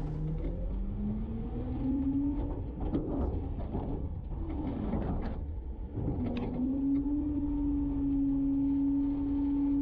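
Garbage truck's engine and hydraulic packer running. The pitch rises over the first couple of seconds, wavers with a few sharp knocks, then dips and climbs again about six seconds in to a steady high whine that holds.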